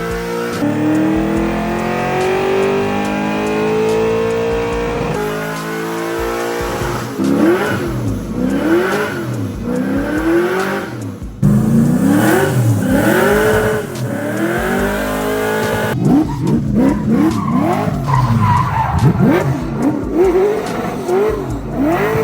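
Drift car engine revving, its pitch climbing and dropping over and over, with tyres squealing, in several clips cut together. For the first few seconds the engine note rises more steadily.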